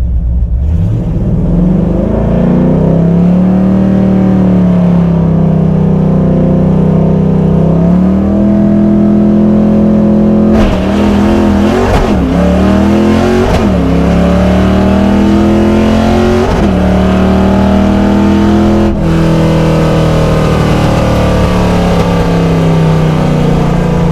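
1989 Mustang GT's 5.0-litre V8 heard from inside the car, pulling under load. The revs climb about a second in, then dip and recover several times around the middle, as with gear changes.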